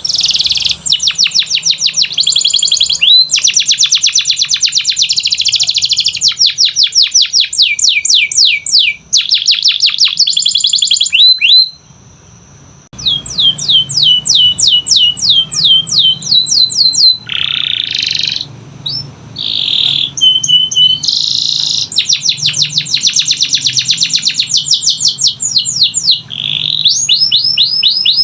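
Canary singing a loud, fast song of trills: runs of rapidly repeated high notes, many sliding down in pitch. There is a short pause about twelve seconds in.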